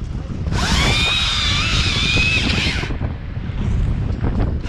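Chainsaw cutting for about two and a half seconds, starting and stopping abruptly, with a high wavering whine, then starting again near the end. Strong wind buffets the microphone throughout.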